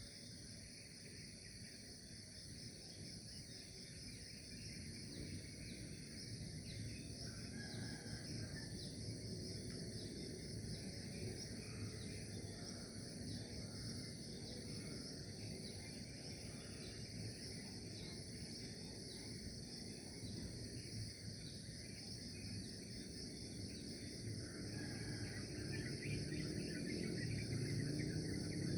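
A steady chorus of trilling insects such as crickets, with a few faint bird chirps and a low background noise that grows louder near the end.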